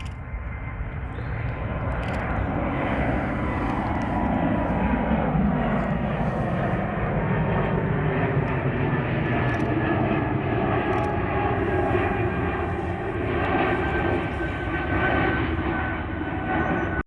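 Airliner's engines passing close by: a steady rush that builds over the first few seconds, with high whining tones that slowly fall in pitch.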